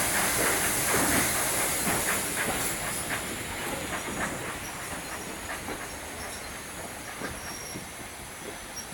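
Steam train hauled by 47406, an LMS 3F 'Jinty' tank engine, running on the line: a hiss of steam with irregular clicks of wheels over the rail joints, the whole sound slowly fading away.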